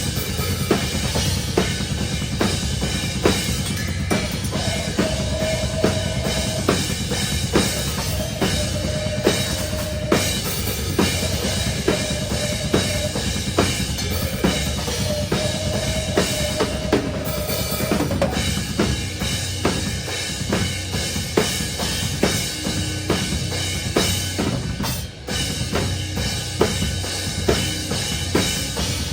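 Metalcore band playing live, heard from the drummer's kit-mounted phone: the drum kit dominates, with bass drum and snare hits running continuously over distorted band music and sharper accent hits coming every second or so. The loudness dips briefly near the end before the playing carries on.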